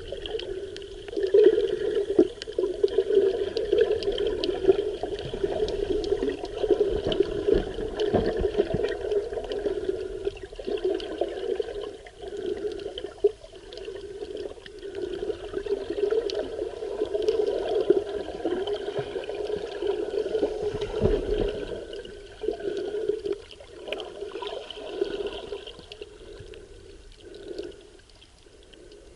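Seawater sloshing and gurgling around an underwater camera, rising and falling in uneven surges and growing quieter over the last several seconds.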